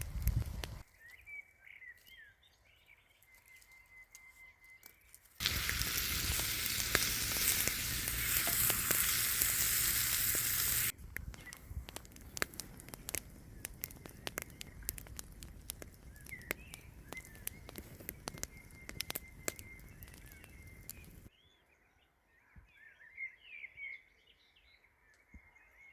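Crackling and sizzling from cooking over a campfire, in sections that cut in and out: a loud steady hiss with many crackles from about five to eleven seconds in, lighter scattered crackles after that. Small birds chirp in the quieter stretches near the start and end.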